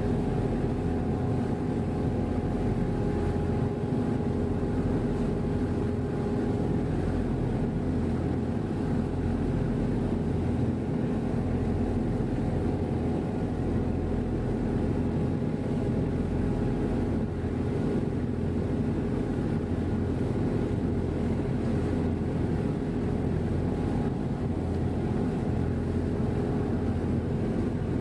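Passenger ferry's engines running at a steady drone, with a constant low hum and a few steady tones that do not change.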